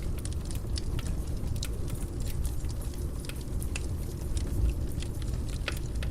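Wood fire burning in a fireplace: a steady low rumble of flames with frequent small crackles and pops, and a louder low thump a little past the middle.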